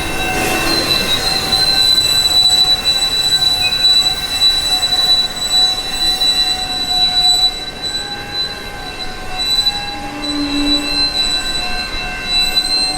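Train rolling past with its steel wheels squealing against the rails: a steady high-pitched squeal with fainter tones above and below it, over the rumble of the cars, easing slightly about halfway through.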